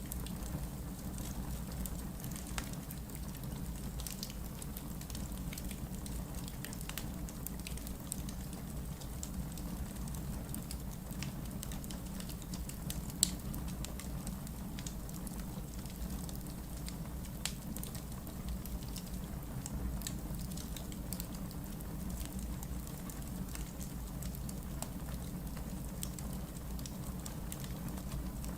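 Wood logs burning in a fireplace, crackling with many small scattered pops over a low, steady rumble, and one sharper pop about halfway through.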